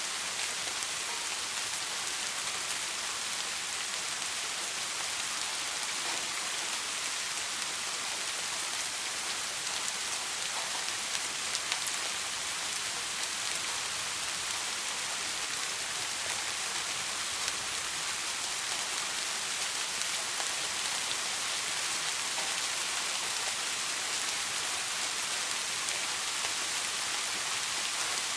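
Steady soft rain falling on a surface, an even hiss with faint scattered drop ticks.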